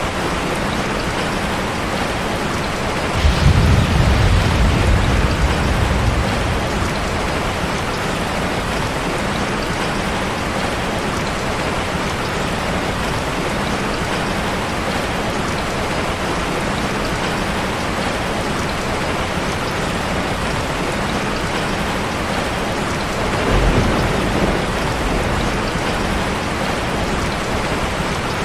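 Steady, even rain, with two low rumbles of thunder: a longer one about three seconds in and a shorter one near the end.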